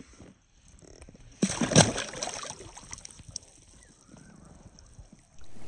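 A sudden splash of water about one and a half seconds in, sloshing and fading away over about a second.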